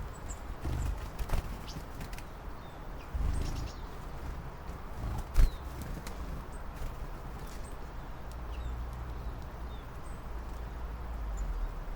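Small birds chirping outdoors in winter, with short, scattered high calls over a low rumble. A few knocks or clicks occur, and the loudest is a sharp knock about five seconds in.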